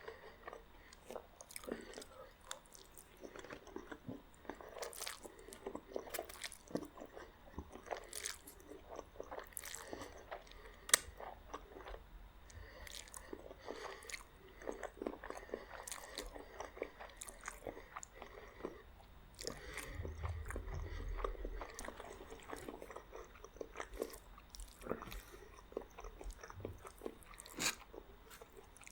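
Close-miked chewing and biting of a meal of meat spaghetti and garlic bread, with irregular crunches and sharp mouth clicks. A brief low rumble comes about two-thirds of the way through.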